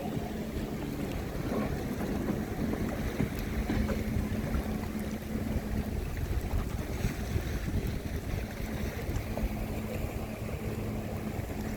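Wind buffeting the microphone in a steady low rumble, with a faint low hum that drops out about halfway through and comes back later.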